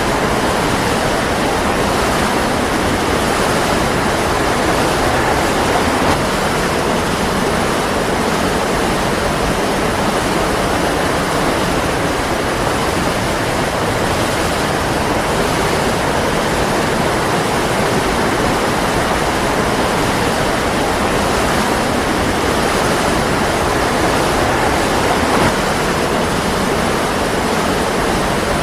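Waterfall: water falling and splashing in a steady, loud rush with no breaks.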